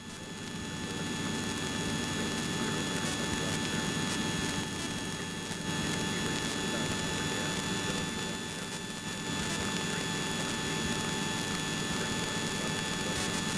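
Steady, muffled drone of a Cessna light aircraft's piston engine and propeller heard inside the cabin, with a few thin steady whining tones running through it.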